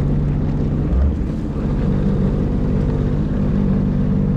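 Jet ski engine running at a steady pitch while underway, with a brief low thump about a second in.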